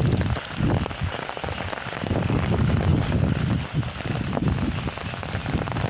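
Heavy rain falling steadily, with gusts of wind buffeting the microphone in an uneven low rumble.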